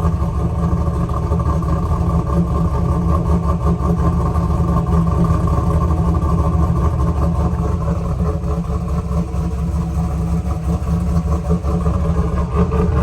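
Cammed 6.0 L LS V8 of a 2001 Pontiac Trans Am WS6 idling with a choppy, uneven exhaust note, still cold as it warms up after a cold start.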